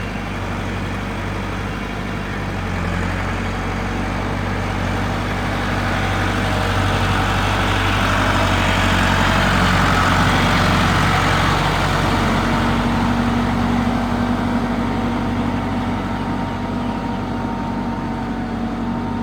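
A Massey Ferguson 375 tractor's diesel engine runs steadily. It grows louder through the middle, about eight to eleven seconds in, then eases back.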